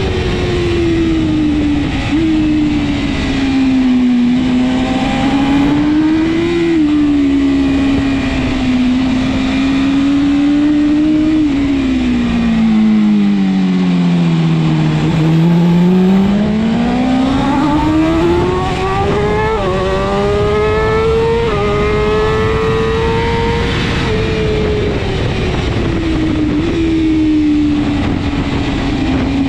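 BMW S1000RR superbike's inline-four engine running hard at racing speed, revs falling and rising through the lap. The pitch drops steeply to its lowest about halfway, then climbs back with small jumps where gears change, and falls again near the end.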